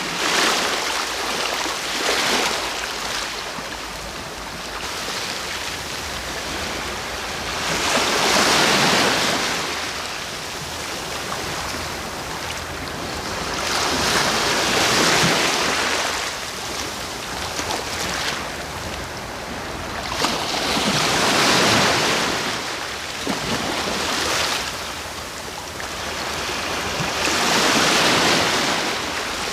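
Sea waves breaking on the shore, each wash swelling and fading about every six to seven seconds, five times.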